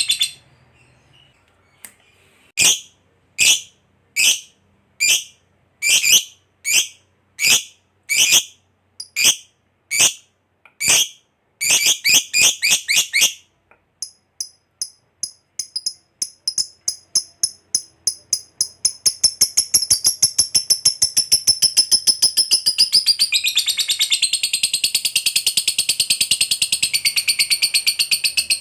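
Lovebird calling: after a quiet moment, loud sharp single calls about one a second, then a quicker run, a short pause, and a rapid chatter that speeds up into a long unbroken trill. This is the long chattering song, ngekek panjang.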